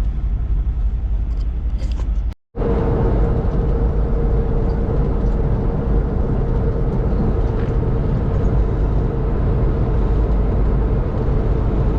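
Semi-truck engine and road noise heard inside the cab, a steady low rumble. It breaks off into a brief gap of silence about two and a half seconds in, and afterwards carries a steady hum.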